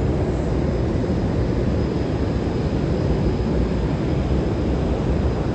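Subway train running: a steady, loud rumble with a faint high whine above it.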